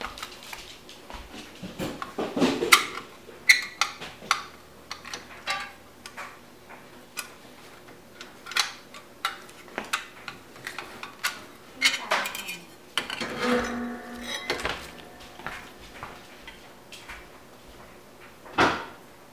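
Irregular metal clinks, clicks and knocks of parts and tools being handled on a dishwasher during installation, with a brief scraping rattle past the middle and one louder knock near the end.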